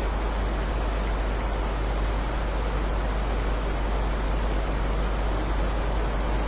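Steady heavy rain: an even, unbroken hiss with a deep steady rumble underneath.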